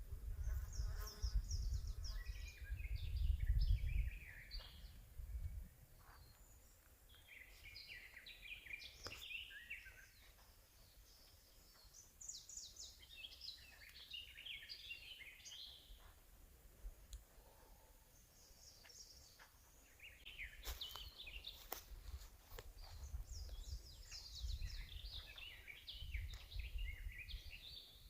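Forest songbirds singing, short chirping and trilling phrases coming again and again, with a low rumble in the first few seconds and again in the last several.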